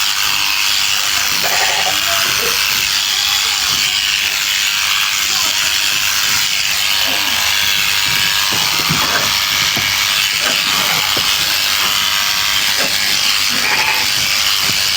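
Electric sheep shears running steadily, a dense continuous buzz at an even level, with a few brief lower sounds over it.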